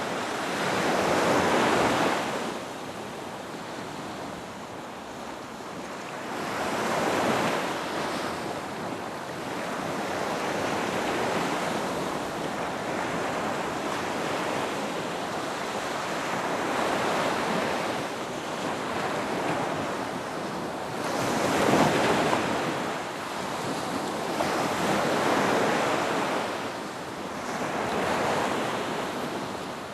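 Ocean waves breaking and washing onto a beach, swelling and fading every four to six seconds, with the loudest wave a little past the middle.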